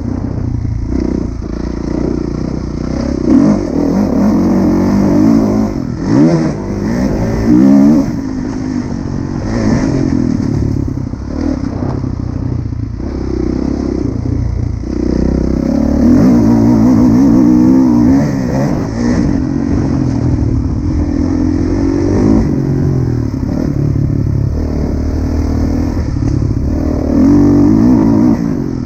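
Kawasaki KX450F single-cylinder four-stroke motocross bike riding a track, the engine revving up and dropping back again and again as the throttle opens and closes, with the loudest surges around 3, 6, 8, 16 to 18 and 27 seconds in.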